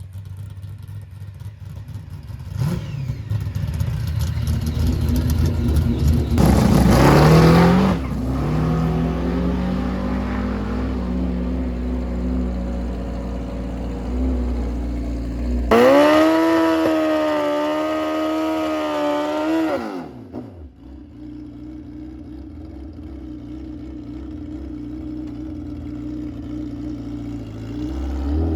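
Drag racing engines revving and accelerating at the strip: a climbing run of revs about seven seconds in, then a loud, high engine note with a slightly wavering pitch for about four seconds past the middle that drops away suddenly.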